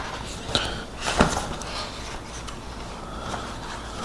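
Pages of a comic book being turned and handled: paper rustling, with two short crackles, about half a second and a second in, the second the louder.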